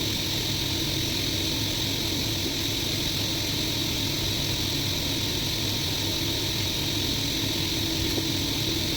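An electric woodworking power tool's motor running steadily at constant speed, with a steady hum and a hissing whine.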